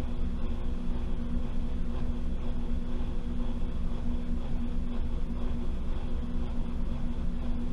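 Washing machine running, heard from inside the drum: a steady motor hum with a constant tone and a low, even rumble.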